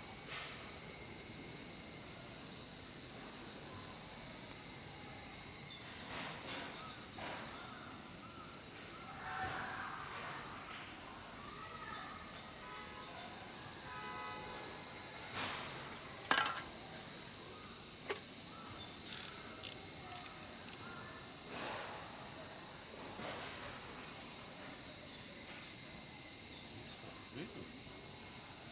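Steady high-pitched chorus of summer insects, with a few scattered pops and crackles from a wood campfire, one a little louder about 16 seconds in.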